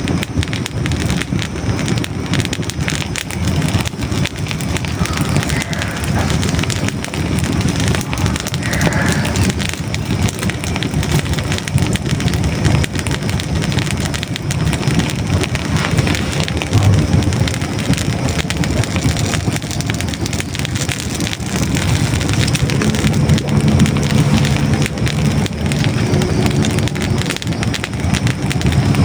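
Hardwood logs burning in a fireplace, with dense, irregular crackling and popping over the low, steady rush of the flames.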